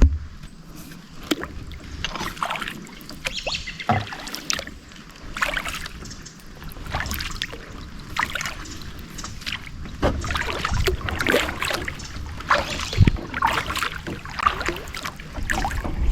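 Kayak paddle strokes: the blades dipping and pulling through the water with irregular splashes and drips, about one a second.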